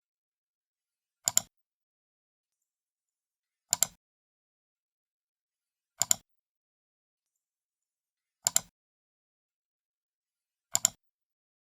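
Computer mouse left button clicked five times, evenly spaced about two and a half seconds apart; each click is a quick double snap as the button is pressed and released.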